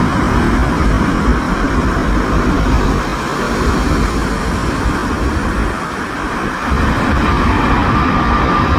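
Jet airliner engines running with a steady loud rush and low rumble. A steady high whine joins about seven seconds in.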